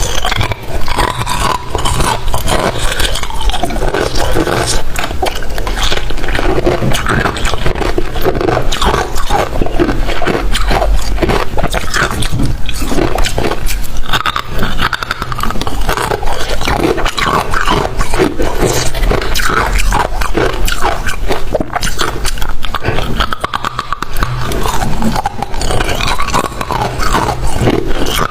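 Close-up crunching of freezer frost being bitten and chewed: dense, continuous crackling with many small crunches throughout.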